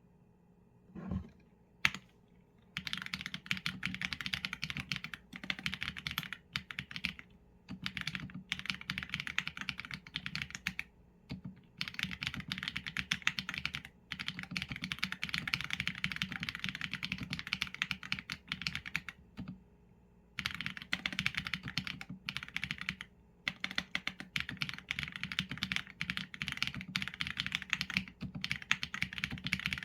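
Mechanical keyboard with Leobog Graywood v4 linear switches and PBT keycaps being typed on quickly and steadily. The keystrokes start about two and a half seconds in and come in bursts of rapid clicks broken by short pauses.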